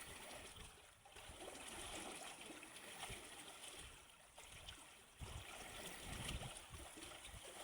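Moving water rushing and splashing, a faint, steady hiss that swells and eases every couple of seconds.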